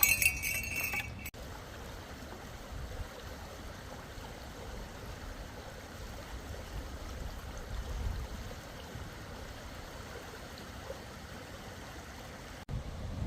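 A jingle of small metal pieces clinking in the first second, then a small creek flowing steadily.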